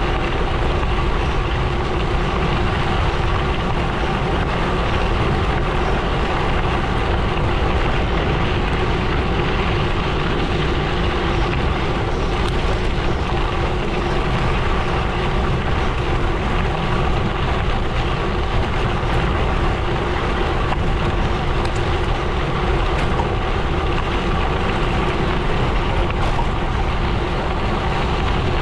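Gravel bike tyres rolling over a gravel road, a steady unbroken rumble and crunch.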